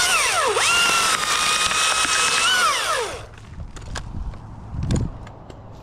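Chainsaw at full throttle: it dips once, revs back up, holds steady for about a second and a half, then falls back to idle a little past three seconds in. A low thump about five seconds in.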